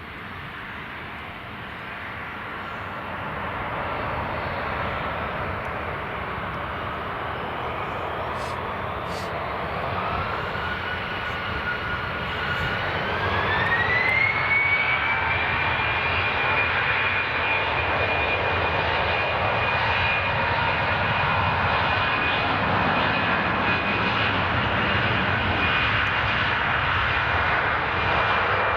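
Jet airliner's engines spooling up to takeoff thrust. The rushing noise grows louder, and a whine climbs in pitch about ten to fifteen seconds in, then holds steady.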